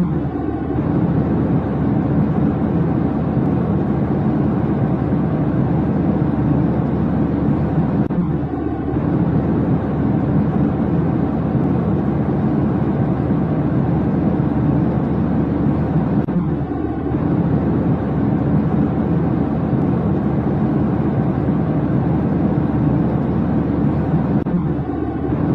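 Steady low rumble of jet airliner cabin noise, with a brief dip in level about every eight seconds.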